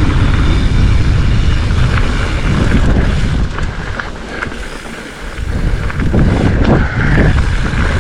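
Wind buffeting an action camera's microphone as a Specialized Fuse hardtail mountain bike rolls along singletrack, with tyre noise and a few clicks and rattles from the bike. The rush eases briefly about five seconds in, then returns.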